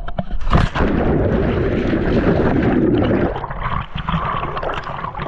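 A jumper plunging into water from a cliff: a sudden splash about half a second in, then a loud muffled churning and gurgling of water for about three seconds, easing to quieter water noise.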